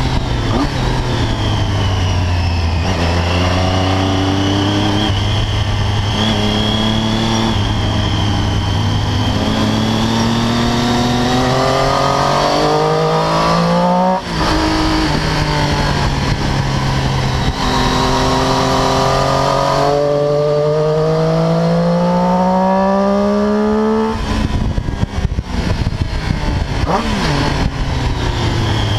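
Triumph Daytona 675's three-cylinder engine under hard acceleration, its pitch climbing steadily, with a short break near the middle where it shifts up; it then pulls up the rev range again. About 24 s in the throttle closes and the engine note turns choppy as the bike slows for a corner, with wind rush over it.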